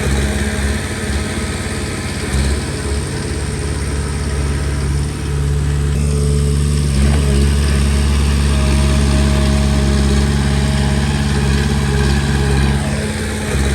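Komatsu D20P bulldozer's diesel engine running steadily, with a short dip in level about five seconds in before it settles into a heavier low drone.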